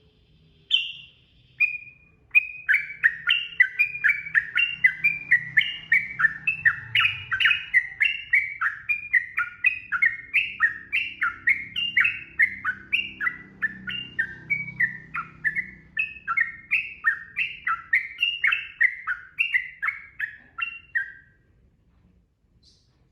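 Sooty-headed bulbul (trucukan) singing a long, fast 'ropel' run of short, down-slurred whistled notes, about three a second. It opens with two single notes, and the run stops shortly before the end.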